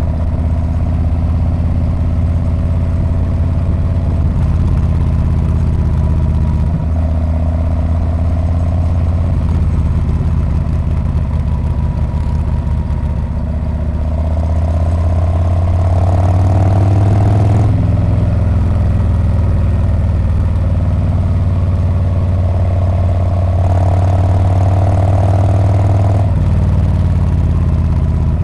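Harley-Davidson Street Bob's V-twin engine and exhaust running under way. The engine note climbs twice and drops suddenly each time, about halfway through and again near the end.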